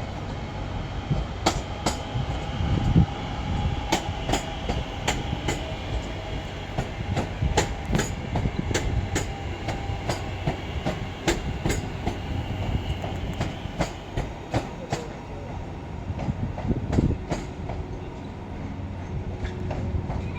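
A train running over the station trackwork: an irregular run of sharp wheel clicks over rail joints and points above a steady low rumble, with a faint high wheel squeal.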